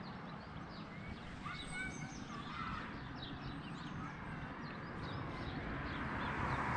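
Small birds chirping repeatedly in short, quick calls over a low outdoor rumble, with a rush of noise swelling near the end.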